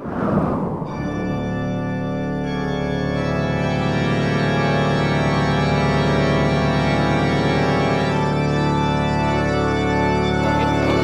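Organ music: long held organ chords that start suddenly and change a couple of times.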